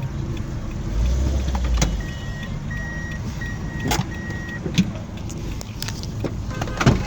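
Road traffic at a junction: car engines running with a steady low rumble, a heavier vehicle sound swelling about a second in, and a run of about four short electronic beeps in the middle, with a couple of sharp knocks.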